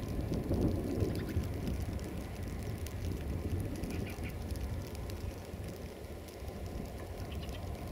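Steady low rumble and rattle of a train running along the track, heard from on board.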